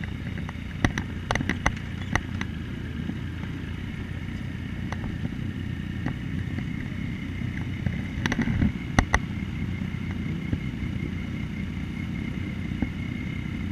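Yamaha Tracer 900's three-cylinder engine running at steady revs as a low rumble, with scattered sharp clicks and knocks, a cluster of them about eight to nine seconds in.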